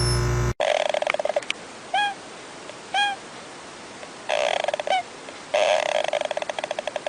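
A bird calling: two short rise-and-fall chirps about a second apart, then repeated bursts of rapid chattering. A brief electronic transition tone cuts off about half a second in.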